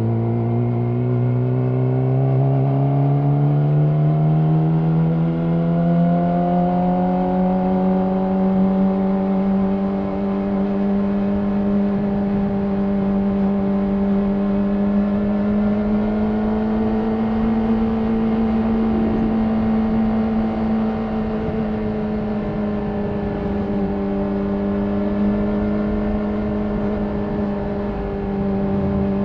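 Yamaha R6's inline-four engine through an Akrapovic slip-on exhaust, its pitch climbing smoothly over the first several seconds as the bike accelerates, then holding at a steady cruise with slight rises and dips in revs.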